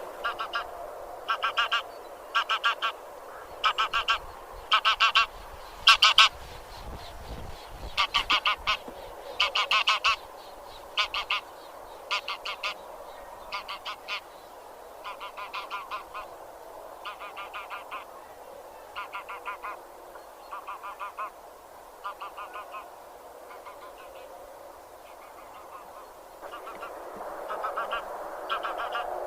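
A flock of Anser geese honking: short nasal calls in quick runs of three to five, over a steady murmur of more distant calling. The loudest bursts come in the first third.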